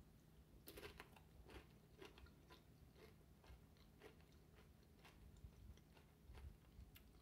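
Faint crunching of a nacho tortilla chip being bitten and chewed, about two short crisp crunches a second, thinning out near the end.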